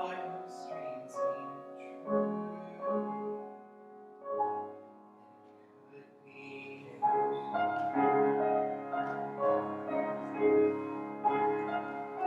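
Slow, quiet prelude music led by piano, sustained chords that fade to a soft passage mid-way and swell louder again from about seven seconds in.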